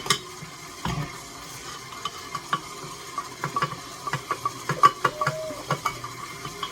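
Utensil scraping and clinking against a mixing bowl while an ingredient is added to cookie dough: a run of irregular clicks and knocks.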